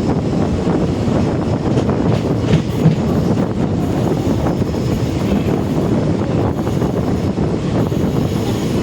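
A train running: a steady rumble with a few scattered clicks and knocks.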